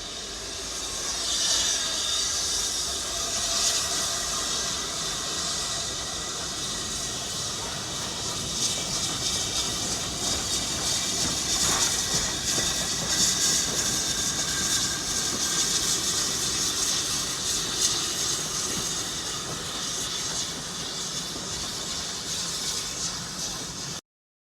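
Steam locomotive with a steady hiss of steam, swelling over the first second or two. It cuts off abruptly near the end.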